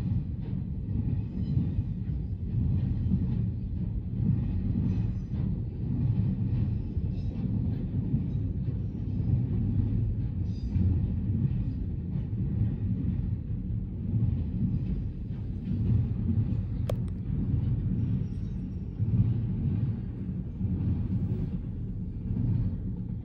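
Canadian National (CN) train rolling past, a steady low rumble of its cars on the rails that swells and eases. There is a single sharp click about 17 seconds in.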